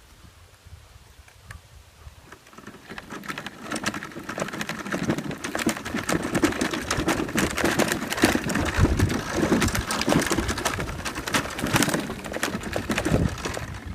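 Rain falling, with many close drops ticking, building up from about three seconds in and cutting off suddenly near the end.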